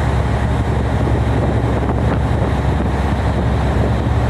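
Tugboat engine running steadily, a low drone, with strong wind buffeting the microphone.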